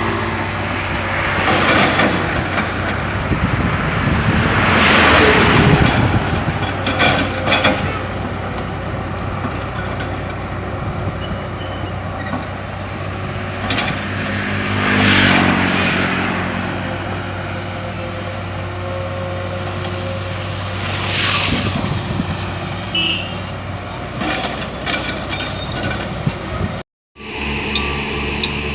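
Heavy diesel road-construction machinery running steadily, with vehicles passing every few seconds, each rising and fading. Near the end the sound cuts out for a moment and gives way to a different steady machine hum.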